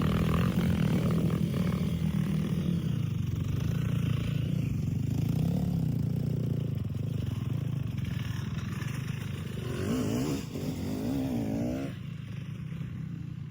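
Dirt bike engine running under way, with its pitch wavering up and down about ten seconds in, then quieter near the end.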